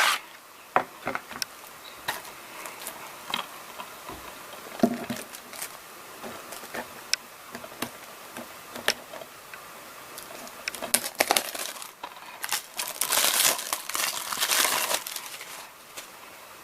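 A DVD case being handled: scattered clicks and taps of hard plastic with crinkling. A denser rustle lasts about two seconds near the end.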